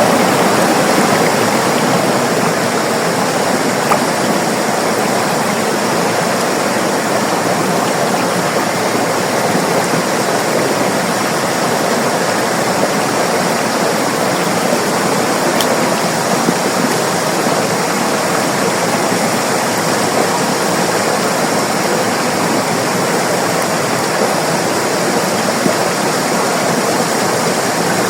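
River water flowing and splashing with a steady rush.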